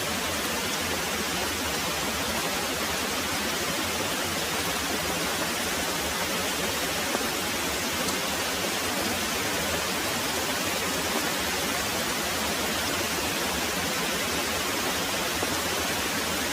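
Very heavy rain pouring steadily, a dense, even hiss with no let-up.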